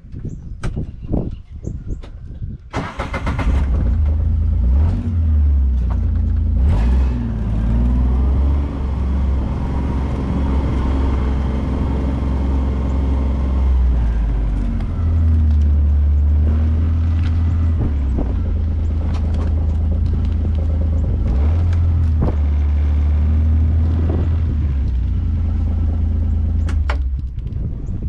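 A vehicle engine starts about three seconds in and runs with a low, steady hum, its pitch stepping up and down a few times, then stops near the end.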